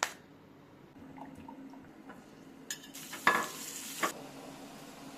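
Kitchen handling sounds: a click, faint light taps, then about a second of hissing with two sharp knocks in it.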